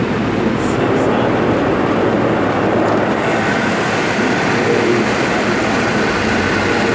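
Automatic car wash running over the car, heard from inside the cabin as a loud, steady rush of noise that grows a little brighter about three seconds in.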